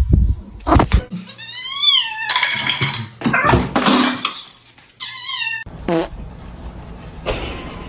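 Cat meowing: one long meow that rises then falls about two seconds in, then shorter meows about five and six seconds in, with knocks and rustling noise in between.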